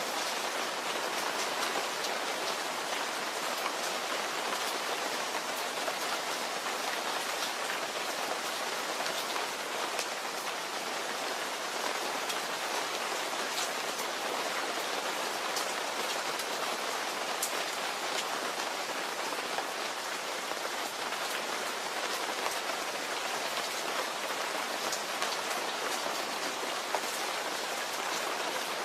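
Steady rain falling, a dense even hiss with many fine drop ticks throughout.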